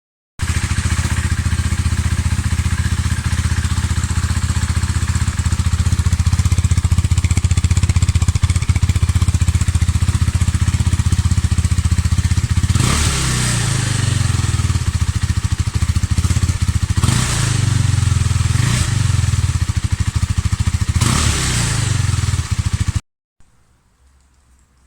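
KTM Duke 390's single-cylinder engine idling through what is most likely its original stock exhaust, then revved four times in quick blips about halfway through and near the end, each rising and falling back to idle. The sound cuts off suddenly shortly before the end.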